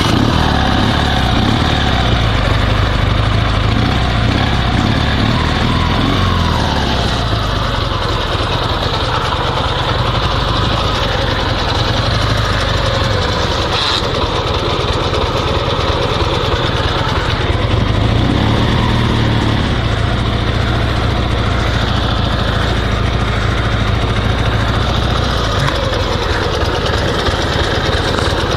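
Dnepr MT16 sidecar motorcycle's air-cooled flat-twin engine running steadily while riding, its note shifting a couple of times.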